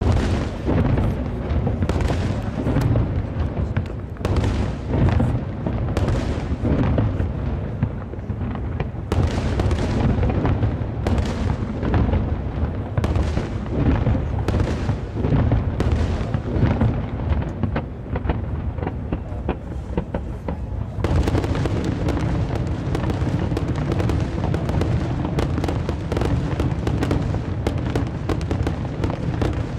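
Fireworks display of aerial shells going off in rapid, overlapping succession, with booms and sharp bangs and no pause between them. The barrage grows denser about two-thirds of the way in.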